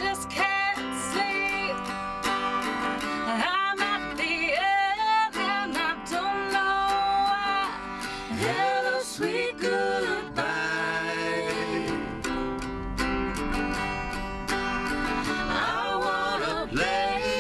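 Live song with a strummed guitar and a singing voice, the voice sliding between long held notes.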